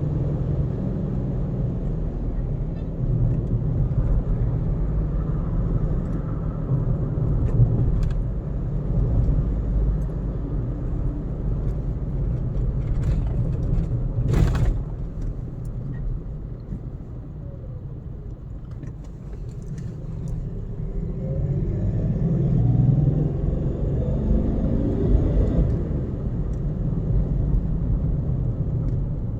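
Road and engine noise of a moving car heard from inside the cabin, a steady low rumble. There is one sharp knock about halfway through, and an engine note rises about two-thirds of the way in.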